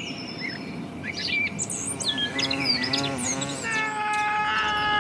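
Small birds chirping and twittering over a quiet outdoor background. About halfway in, a long pitched sound with many overtones comes in, rises, and is held on one high note.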